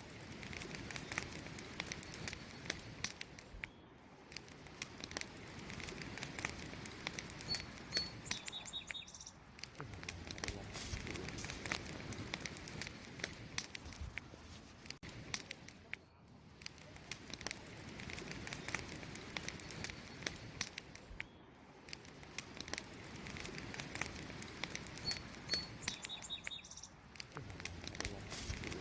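Wood campfire crackling, with frequent sharp pops and snaps over a soft hiss of flames. Brief bird chirps come about eight seconds in and again near the end.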